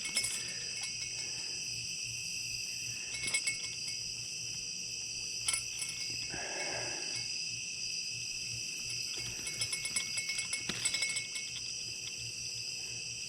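Night chorus of crickets and other insects, several steady high trills overlapping. A few faint clicks come through it, and a brief rustle sounds about midway.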